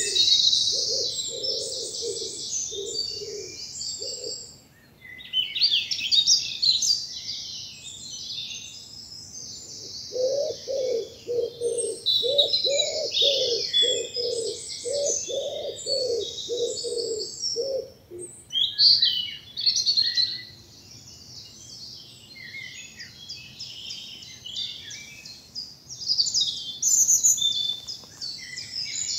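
Woodland dawn chorus of several songbirds singing and chirping over one another. A low cooing repeats steadily underneath, about one and a half notes a second, for the first few seconds and again through the middle.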